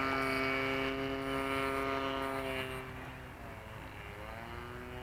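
Radio-control model airplane flying overhead, its motor and propeller giving a steady pitched drone. The pitch dips briefly and comes back up about three-quarters of the way through, and the sound fades a little.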